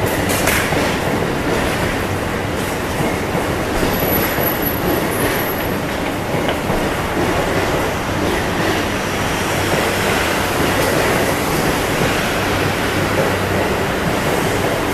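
JR East E235 series 1000 electric commuter train running past: the steady noise of wheels on rails, with a few rail-joint clicks near the start.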